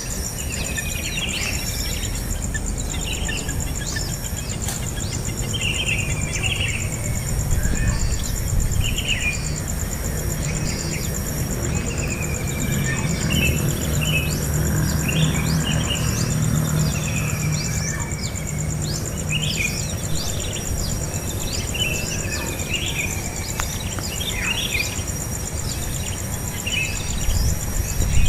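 Small birds chirping over and over in short, quick calls that slide up and down, over a steady high-pitched insect drone, with a low rumble underneath.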